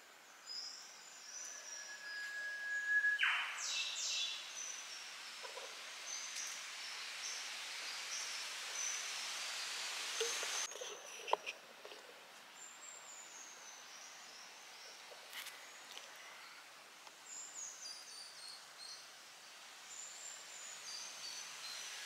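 Eastern whipbird call: a long, steady whistled note ending in a sharp upward whip-crack about three seconds in, the loudest sound here. Short high chirps from other birds run throughout, with a rising hiss in the middle that cuts off suddenly.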